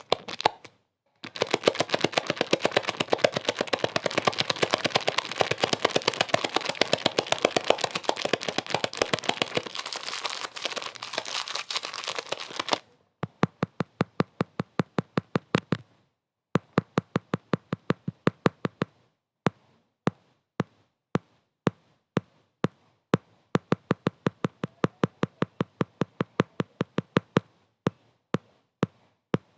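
A dense run of sharp clicks and crackles over a hiss, ending suddenly about thirteen seconds in, then separate sharp clicks about two to three a second with short pauses.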